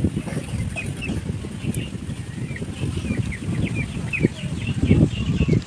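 Small birds chirping, many short quick calls one after another, over a low, uneven background of voices and handling noise that swells near the end.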